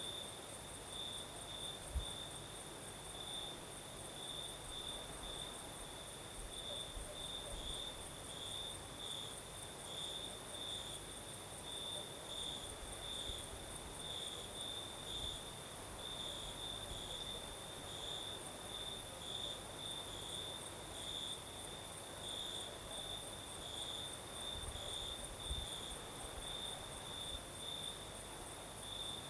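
Crickets singing at night: repeated chirps at about two a second over a continuous high insect trill, with a faint breeze underneath. A brief low thump about two seconds in.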